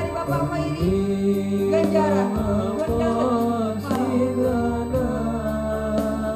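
Male students singing a melodious song together over sustained instrumental accompaniment, with a steady beat.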